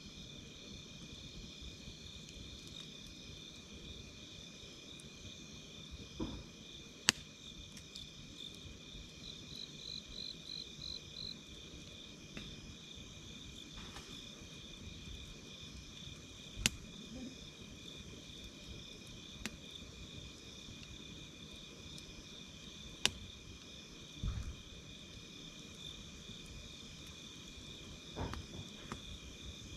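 A steady chorus of night insects, crickets among them, chirring in two pitch bands, with a brief faster trill a few seconds in. A wood campfire pops over it with about four sharp cracks, and a few soft low thuds come from the fire.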